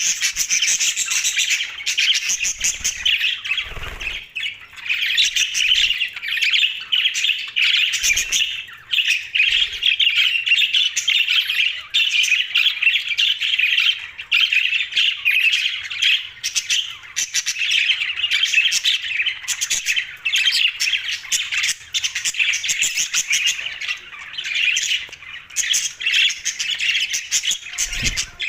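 A flock of pet budgerigars chattering and squawking nonstop, a dense overlapping stream of high-pitched chirps and warbles.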